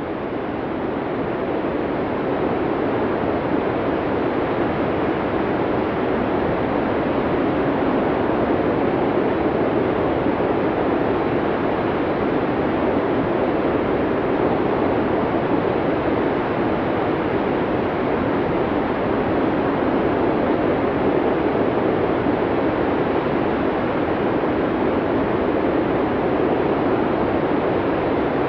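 Blizzard wind: a steady rushing noise with no distinct gusts or tones, fading up over the first couple of seconds.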